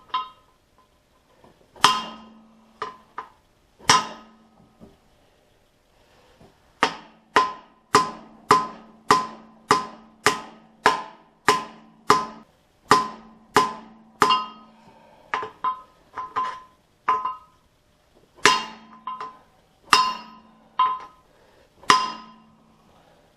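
Hammer blows on a hatchet held against a bent wheel rim to straighten it, each strike ringing briefly. A few spaced blows come first, then a steady run of about two strikes a second, then lighter and more scattered blows.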